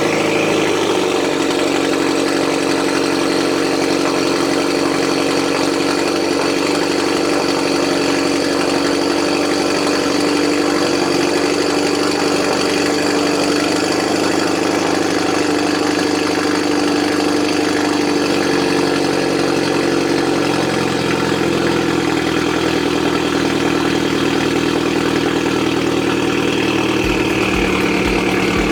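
Hyundai Genesis Coupe 2.0T turbocharged four-cylinder idling just after a cold start through a Tomei Expreme Ti titanium catback with no cats, a steady drone that is extremely loud. About two-thirds of the way in, the low part of the idle note shifts slightly as the idle settles.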